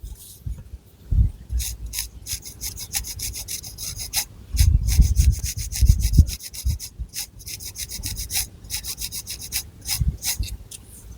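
Long fingernails scratching through thick hair and across the scalp in quick, rasping strokes, several a second, with dull low thuds at times.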